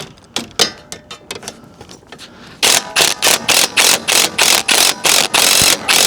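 A few scattered tool clicks, then from a little over two seconds in, a hand ratchet worked quickly to back out an exhaust bolt: a rattle of pawl clicks on each stroke, about three strokes a second.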